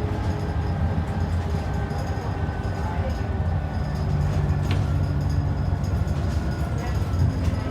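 ADL Enviro 400 double-decker bus heard from inside the cabin: a steady low engine and road rumble, with the engine note growing stronger for a couple of seconds midway.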